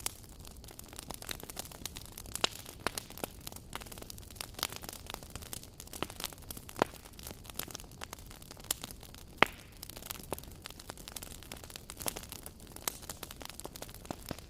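Wood fire crackling: a constant patter of small snaps and ticks over a soft hiss, with a few louder single pops scattered through.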